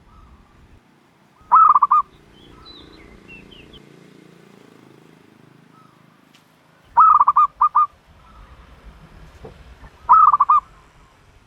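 A dove calling loudly three times, each call a quick run of four or five pulsed notes lasting about half a second. Faint high chirps of another small bird come in between the first two calls.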